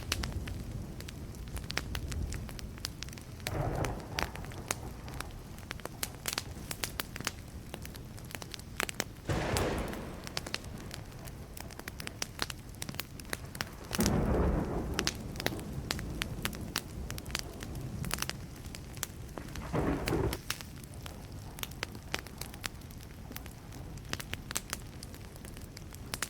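Burning wood campfire crackling and popping continuously. Four short, louder low rumbles come through it, the strongest about halfway through.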